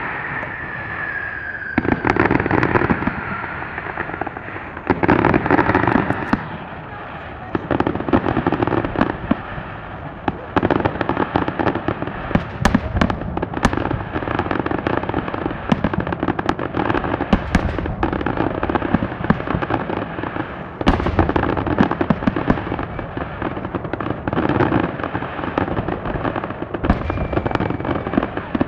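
Fireworks display: a dense, continuous barrage of crackling and bangs, with a whistle falling in pitch in the first couple of seconds.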